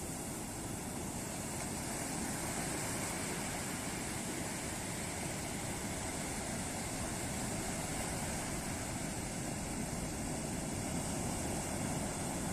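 Ocean surf: a continuous wash of breaking waves on a beach, growing slightly louder about two seconds in.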